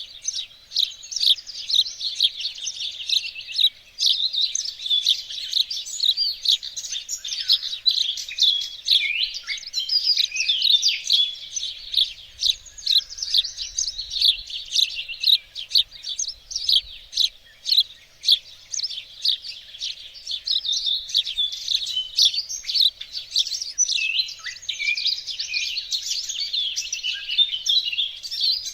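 Several small songbirds singing and chirping at once in a dense, unbroken chorus of quick high trills and tweets.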